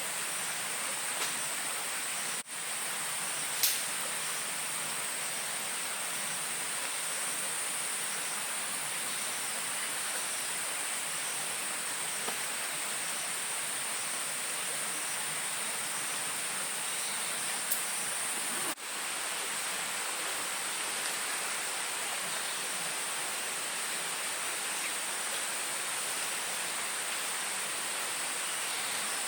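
Steady forest ambience: an even rushing hiss with a continuous high-pitched drone over it, which drops out for an instant twice.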